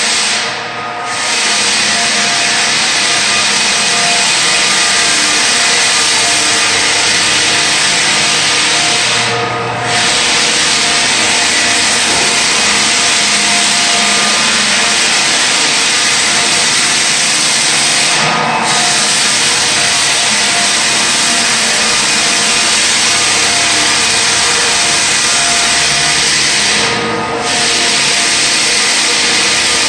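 Floor sander running steadily as it sands hardwood flooring down for refinishing. It makes a loud, even grinding hiss that dips briefly about every nine seconds.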